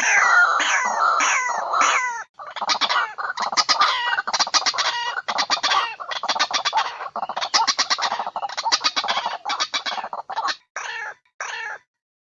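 White-breasted waterhen (ruak-ruak) calling, as used for a lure call. It starts with a run of repeated falling notes, about two to three a second, then breaks into long runs of fast stuttering calls, and ends with two separate notes.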